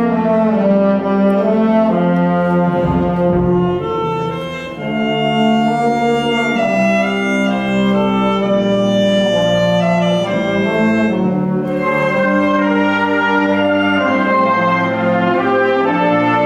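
School wind band playing sustained brass and woodwind chords with moving melodic lines, easing briefly about four seconds in before swelling back.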